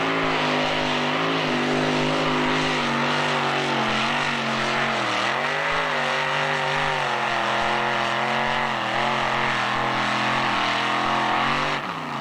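Two-wheel-drive pulling truck's engine running at high revs under load, mostly steady with a brief dip in pitch about five seconds in. It cuts off abruptly near the end.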